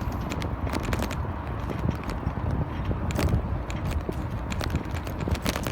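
Bicycle rolling over a concrete road: a steady low rumble of wind and road noise with frequent sharp clicks and rattles from the bike.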